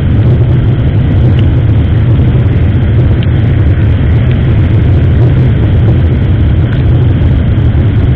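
Steady, loud rumble of wind and a running motorcycle engine on an SJCAM action camera's microphone while riding.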